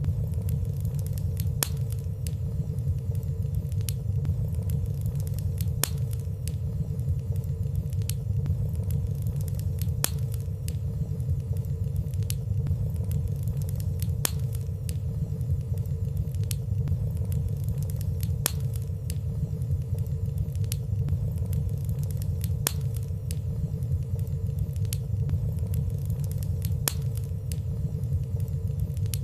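Wood fire burning in a fireplace: a steady low rumble of flames with light, frequent crackles every second or so, no big pops.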